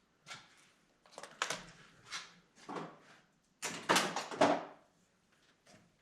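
A series of short knocks and scrapes at uneven spacing, loudest about four seconds in: shop work on an engine being freed for removal from a car.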